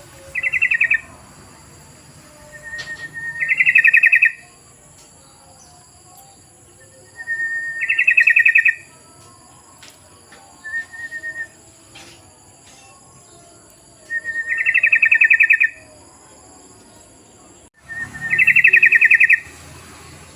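Yellow-vented bulbul (trucukan) song, played as a lure call: loud, bubbly, warbled phrases repeated about every four seconds. Each phrase opens with a short plain note and runs into a rapid trill lasting about a second, and one phrase near the middle is shorter.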